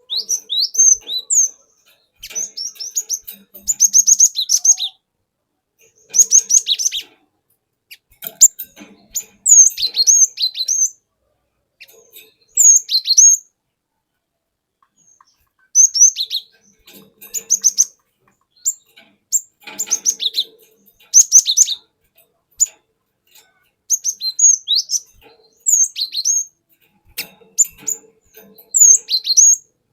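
Cinereous tit (gelatik batu) singing. It gives bursts of quick, high, down-slurred whistled notes in phrases of a second or two, with a pause of about two seconds around the middle.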